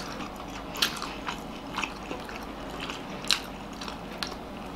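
Close-miked chewing of steamed egg momos (dumplings), with short sharp mouth and fork clicks several times.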